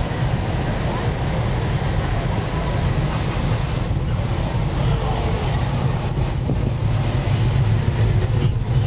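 Low, steady rumble of classic car engines driving slowly past at close range. A thin, high-pitched squeal comes and goes in short bursts over it for the first seven seconds or so, and a higher squeak is heard briefly near the end.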